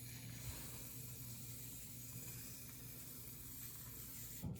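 Aerosol can of shaving cream being sprayed, a steady soft hiss of foam coming out of the nozzle, breaking off briefly near the end.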